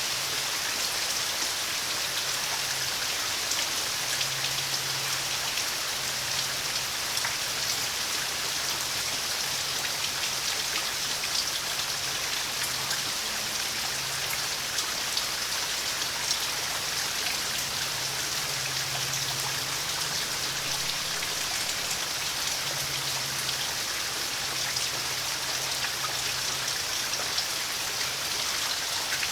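Steady rain falling, with scattered drops ticking on surfaces close by.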